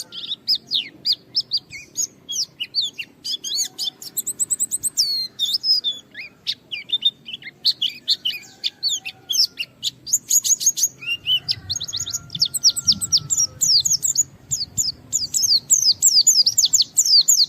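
White-eye (pleci) singing vigorously: rapid runs of high, sharp, downward-sweeping chirps broken by short pauses, the full, challenging song of a bird calling out a rival.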